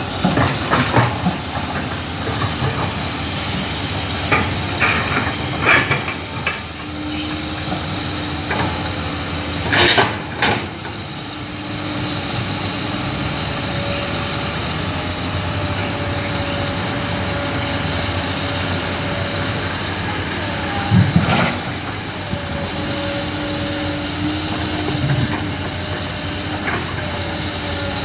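Heavy diesel machinery running steadily, with a faint held engine tone that comes and goes and a few sharp knocks or clanks, two of them louder, about a third of the way in and past two-thirds.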